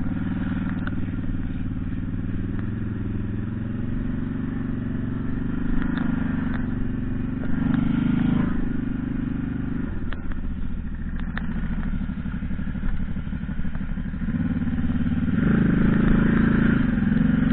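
The Bugfaster BC-800's engine running steadily, with the revs rising briefly about halfway through and again near the end. A few sharp clatters sound over it.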